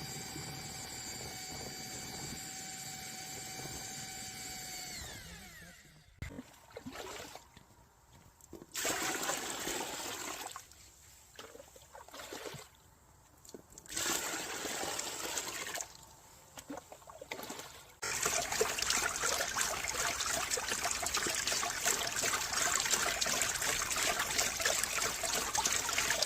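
A steady machine whine that drops in pitch and stops about five seconds in, then water running and splashing in short spells, continuous from about eighteen seconds in.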